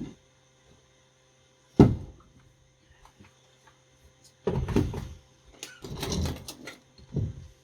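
Workshop handling noises: a sharp, loud knock about two seconds in, then a run of clunks and rattles over the following few seconds and one more knock near the end, as tools or the saw are put down and moved on the bench.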